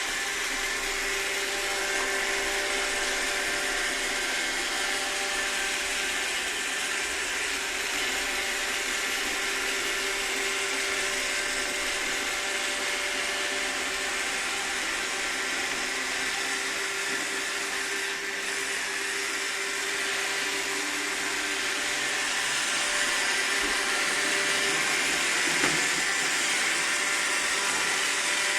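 Roomba robot vacuum running, a steady whir of its vacuum motor and brushes with a few held tones over a hiss. There is one small knock near the end.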